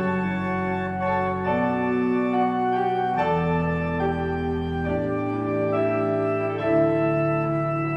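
Organ playing slow, sustained chords that move to a new chord every second or so, with piano alongside.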